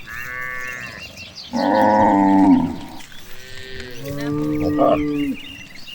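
Cattle mooing: three drawn-out calls, the middle one the loudest.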